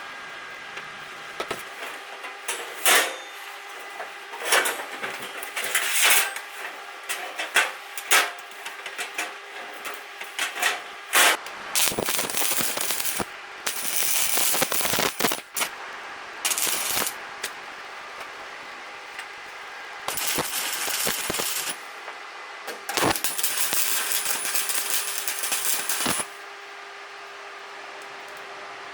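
Arc welding on steel: short runs of crackling arc lasting one to three seconds, with sharp metallic clinks and taps in between.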